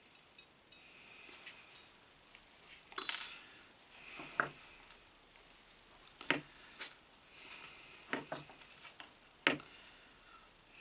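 Light metallic clinks and taps of small tools and parts being handled during wiring work, about six sharp ones spread through the stretch, with soft hissing between them.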